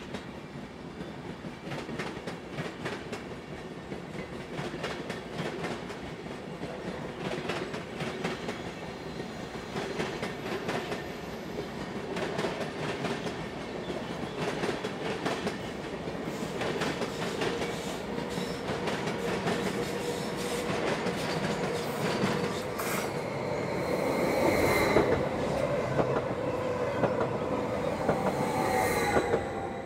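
SBB passenger train coaches rolling through the station, wheels clicking over rail joints and points. The rolling noise grows slowly louder, with high wheel squeal joining in over the last few seconds.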